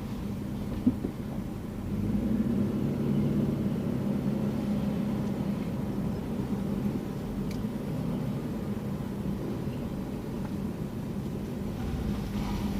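Car engine and tyre noise heard from inside the cabin while driving: a steady low hum that grows a little louder about two seconds in.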